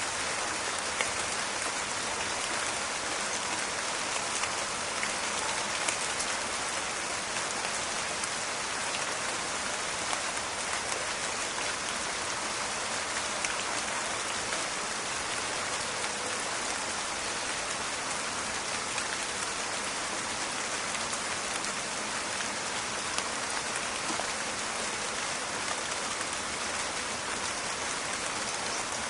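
Steady rain falling in a forest: an even hiss dotted with many small crackling drop ticks.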